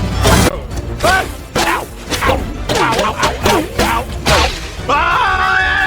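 Cartoon soundtrack: a heavy thump, then a quick string of short squawking, chattering cartoon-bird voices with knocks and swishes. About five seconds in, a long wavering squawk is held.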